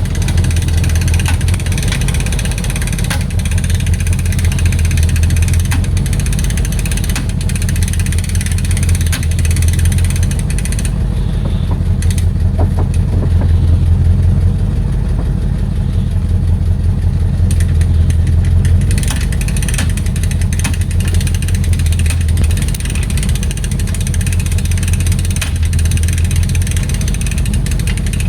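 A motor vehicle's engine running steadily, with a deep hum and a slight pulsing throughout.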